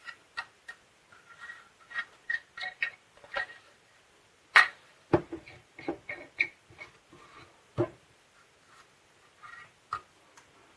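Plastic parts of a 3M H180 tape gun being handled and fitted: a scattered run of light clicks and knocks, the sharpest about four and a half seconds in, with faint rubbing between them.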